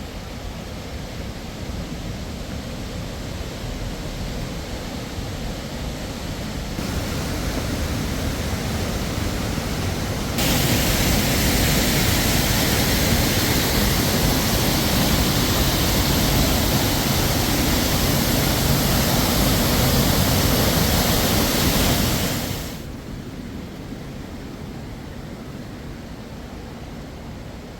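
Steady outdoor rushing noise with no tones in it. It gets louder about 7 seconds in, jumps louder and brighter about 10 seconds in, and drops back suddenly near 23 seconds.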